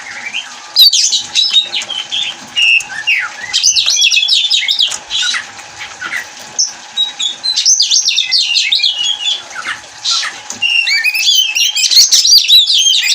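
Oriental magpie-robin (kacer) singing a rapid, varied song of sweeping whistles and chattering notes, in bursts with short gaps.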